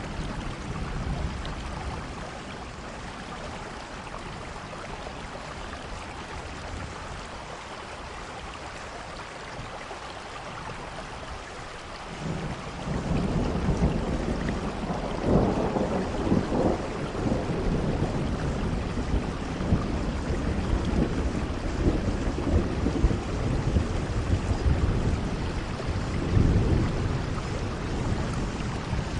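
Steady rainfall. About twelve seconds in, a long low rumble of thunder rolls in over the rain, swelling and fading in waves.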